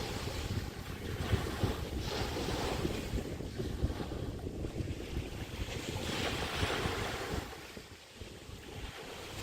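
Chesapeake Bay waves washing onto the beach in swells, the louder washes about two seconds in and again about six seconds in. Wind buffets the microphone with a steady low rumble.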